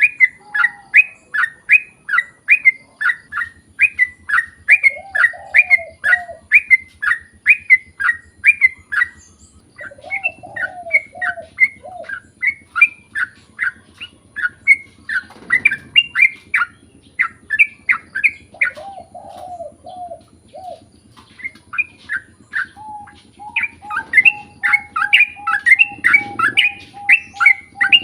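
Yellow-vented bulbul (trucukan) calling in long, rapid series of sharp chirps, about two or three a second, broken by a couple of short pauses. A lower warbling phrase cuts in three times, and a steady whistle-like tone runs under the chirps near the end.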